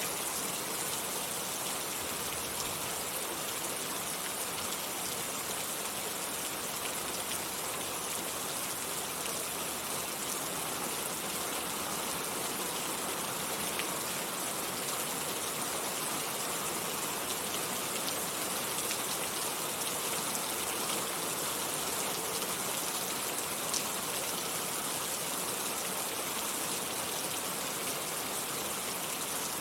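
Steady rain falling, with a dense patter of drops on a surface and no change in strength.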